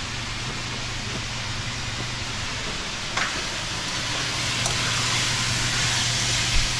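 Butternut squash cubes sizzling as they fry in a frying pan while being stirred with a spatula, the sizzle growing louder about halfway through, with a few light clicks. A steady low hum runs underneath.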